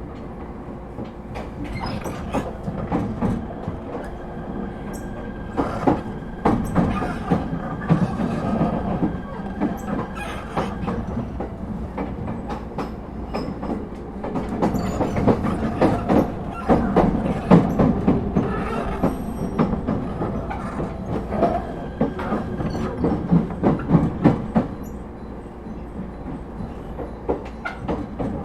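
Echigo TOKImeki Railway ET127 series electric train running, heard from inside the passenger car: a steady rumble with wheels clicking irregularly over the rail joints. Now and then a thin squeal from the wheels rides on top.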